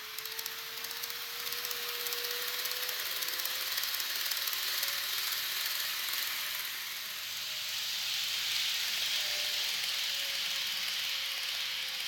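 KATO 255-series model train running on its track: a steady whirring hiss of the small motor and wheels with a faint thin motor whine, swelling twice as the train comes closer.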